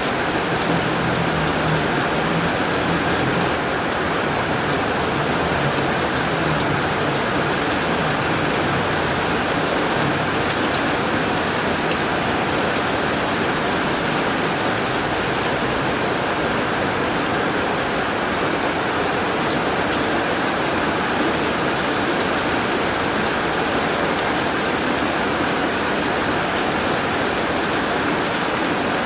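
Heavy rain falling steadily on a tin roof, a dense, even patter with scattered sharper drop hits.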